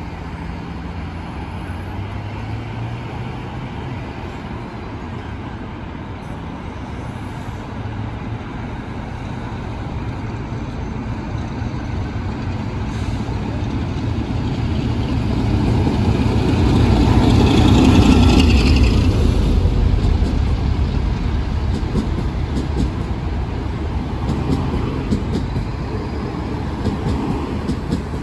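A train passing, its rumble building slowly to a loud peak about two-thirds of the way through and then fading.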